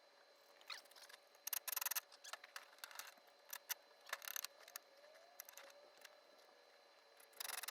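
Faint, scattered clicks and short scraping sounds, several in quick succession at a time, over a faint steady hum.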